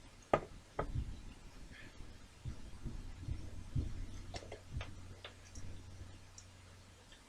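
Small model-kit parts and tools handled on a workbench: two sharp clicks near the start, then a scatter of light taps and thin clicks, over a faint steady low hum.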